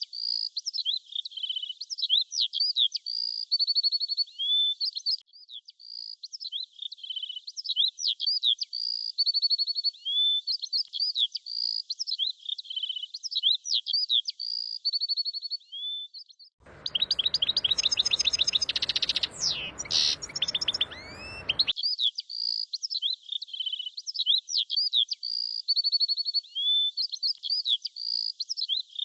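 Songbirds chirping and whistling in a quick run of short high notes, many sliding down in pitch, in a pattern that repeats every few seconds. About 17 seconds in, a fuller, noisier stretch with louder chirps lasts about five seconds, then the high chirping resumes.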